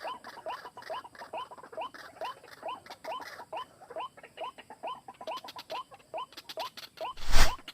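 White-breasted waterhen calling, a steady run of short rising notes at about three a second. Near the end a loud, brief noise covers the calls.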